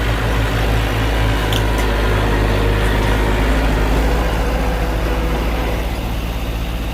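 Heavy diesel engine of earthmoving machinery running steadily with a deep low hum, easing slightly about five seconds in.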